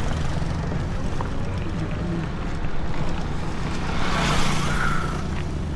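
Wind buffeting the microphone over a steady low road rumble while riding, with a vehicle passing about four seconds in.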